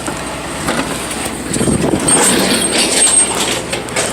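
Excavator running and working, its engine humming steadily under rattling and knocking, with a thin high whine for about a second near the middle.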